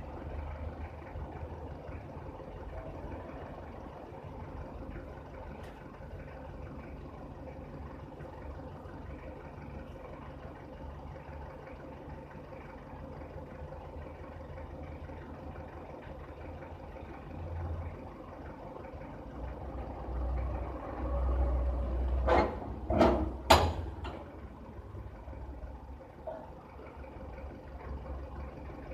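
Steady low rumble of a running engine or machine. About two-thirds of the way in come three loud, sharp knocks in quick succession, each about half a second apart.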